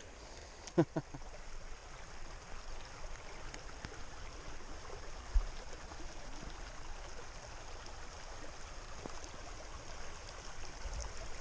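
Creek water running steadily, with a short sound just under a second in and a brief low knock about five seconds in.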